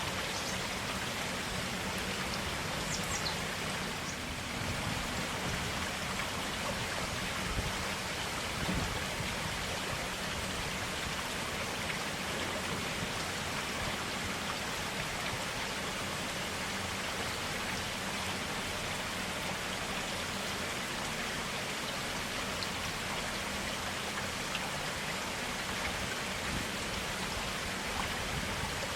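Clear water of a forest stream running and splashing over stones in a steady, even rush, with small drips and splashes within it.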